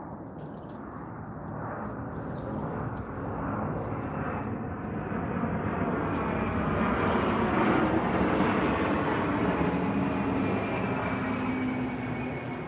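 A passing aircraft's engine noise, swelling to a peak about seven or eight seconds in and then fading, with a low hum that drops slightly in pitch as it goes by.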